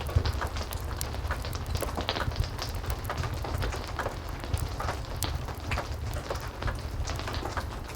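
Heavy rain falling steadily, with a low rumble underneath, and a wood fire crackling in irregular sharp pops over it.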